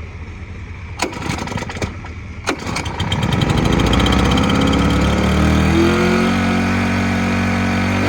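Fire pump's small gasoline engine being started on choke: a few short cranking bursts, then it catches about three seconds in and runs steadily near full throttle.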